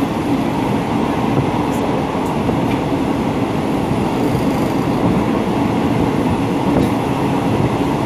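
Steady rumble and wheel-on-rail noise of a moving passenger train, heard from inside the carriage.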